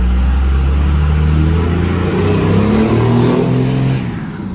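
Diesel pickup engine accelerating hard, its note climbing in pitch, then backing off sharply about four seconds in.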